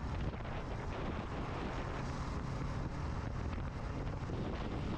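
A motorcycle being ridden in strong wind: a steady rush of wind on the microphone mixed with the bike's engine and road noise.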